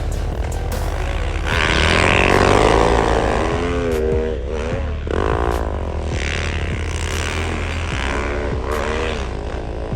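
Snowbike (dirt bike with a snow track kit) engine revving up and down repeatedly as it is ridden, with the loudest surge about two seconds in and further surges around five and eight seconds in.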